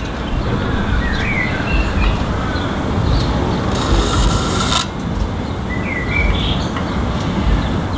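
A steady low rumble, with a bird chirping twice, briefly, about a second in and again about six seconds in. A scratchy rubbing noise lasts about a second near the middle.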